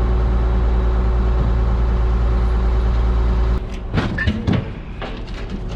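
A truck engine running steadily with a heavy low drone, which cuts off abruptly about three and a half seconds in and gives way to scattered knocks and clatter.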